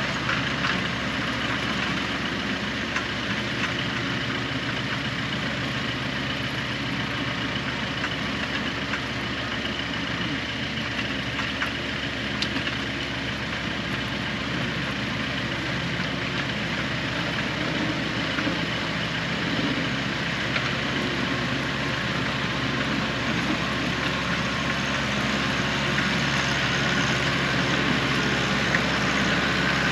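Engine running steadily at a constant speed, with no change in pitch.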